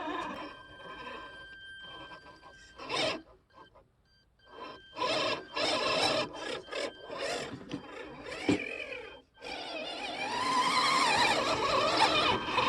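Radio-controlled scale truck's electric motor and geared drivetrain whining in stop-start throttle bursts, the pitch rising and falling, with a brief pause about four seconds in and a longer, steadier run near the end.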